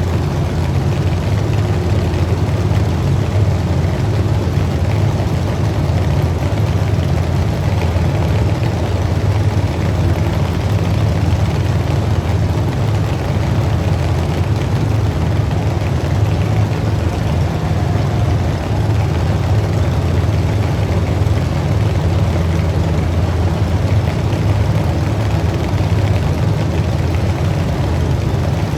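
A truck engine running steadily at a low, even pitch, with no revving.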